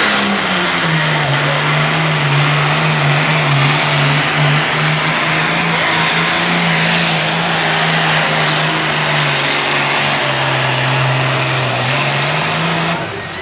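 International 1066 tractor's diesel engine running hard under full load during a pull. Its note drops a little about a second in, holds steady, sags again near the end, then falls away suddenly.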